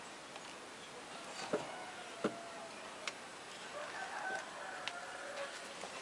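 Faint hiss with a few soft knocks and faint, drawn-out distant bird calls.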